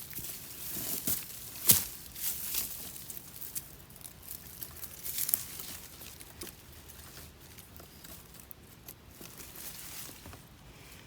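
Dry leaves and plant stems rustling and crackling as someone pushes through vegetation, with scattered sharp snaps, the loudest about two seconds in.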